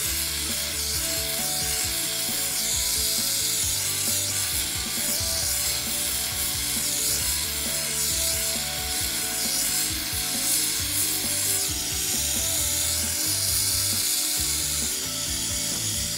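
Jeweler's gas soldering torch with a big number 7 tip burning with a steady hiss while heating a solder joint.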